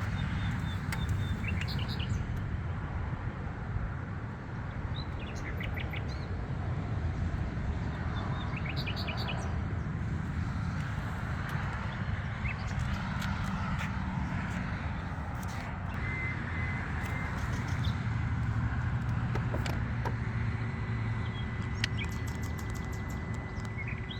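Birds chirping in short, scattered calls over a steady low rumble, with a thin steady tone coming in near the end.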